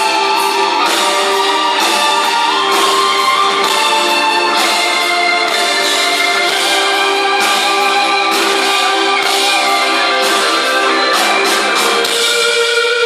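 Live rock band playing an instrumental passage: held chords and guitar with regular percussive hits, thin in the bass as from an audience recording.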